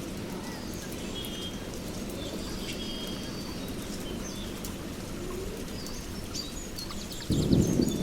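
Songbirds chirping, with short rapid high trills, over a steady low background noise. Near the end a much louder low rumble of thunder and rain cuts in suddenly.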